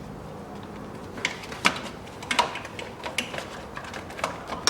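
Irregular light clicks and knocks of hands handling plastic pipes and their snap connectors in an engine bay, about half a dozen sharp clicks spread over a few seconds.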